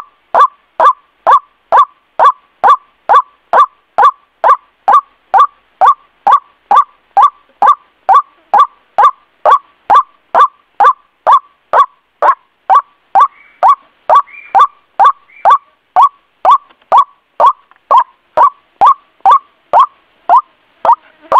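White-breasted waterhen (ruak-ruak) call repeated monotonously, about two short notes a second, each note sliding downward in pitch. A few faint higher chirps come in around the middle.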